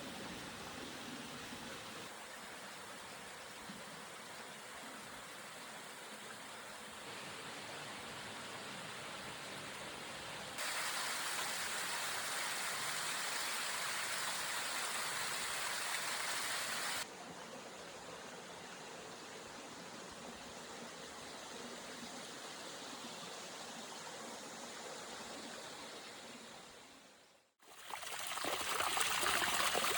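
Rushing water of a mountain stream and waterfall, a steady hiss. The level jumps abruptly several times, louder for a stretch in the middle, then fades out and returns louder near the end.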